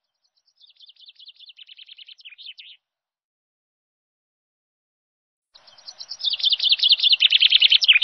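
A bird singing: a fast trill of chirps in the first few seconds, then, after a pause, a louder trill from about two-thirds of the way through.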